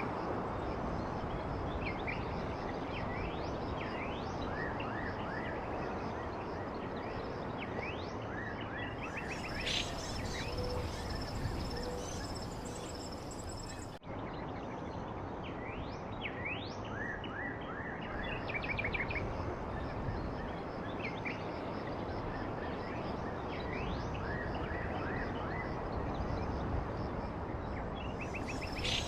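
Several small songbirds chirping, with quick high sweeps and short trills over a steady outdoor noise bed. About halfway through the sound drops briefly and the same stretch of birdsong starts over, as a loop.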